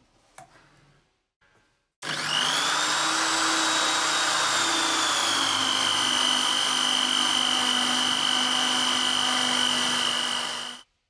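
Electric drill starting about two seconds in with a whine that rises briefly, then settles a little lower and runs steadily as the repaired wood drill bit bores into wood, stopping just before the end. A few faint clicks come before it starts.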